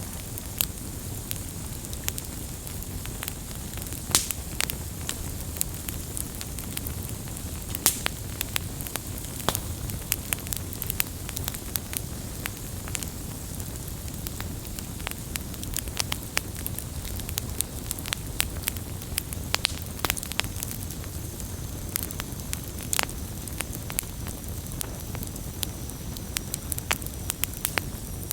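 Campfire burning, with a steady low rumble and irregular sharp crackles and pops of burning wood, a few louder pops among them.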